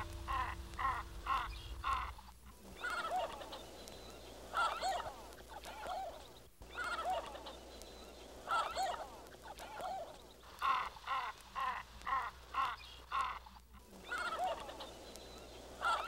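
Birds calling: runs of evenly spaced, clucking notes about two a second, in several bouts, with shorter single calls between them.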